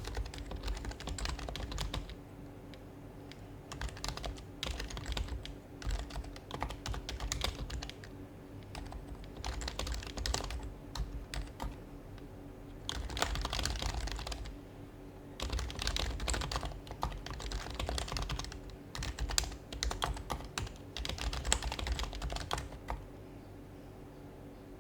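Typing on an HHKB Professional Hybrid Type-S keyboard with its quieted Topre keys. The keystrokes come in quick runs of a second or two, broken by short pauses, over a faint steady hum.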